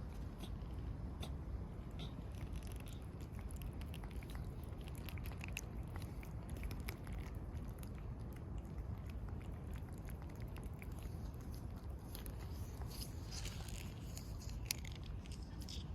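A cat chewing and crunching food, heard as many small irregular clicks that grow busier near the end, over a steady low rumble.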